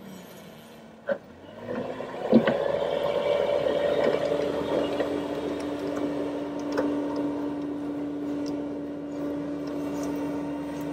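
Skid steer working a hydraulic soil-levelling rotor attachment. After a quiet start and a click about a second in, the machine comes up sharply with a knock just after two seconds. It then runs on steadily with a held mechanical whine.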